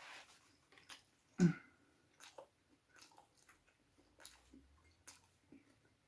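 Close-miked chewing and wet mouth clicks of someone eating shrimp. One louder, short low mouth sound comes about a second and a half in.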